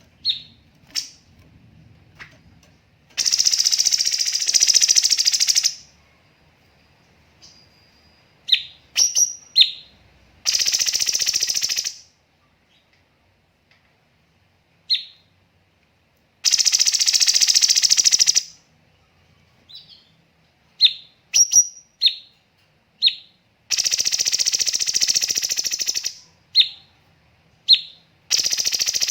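Cucak cungkok songbird calling: long, dense, rapid trilling phrases about two seconds each, repeated five times, between short sharp chirps that drop in pitch.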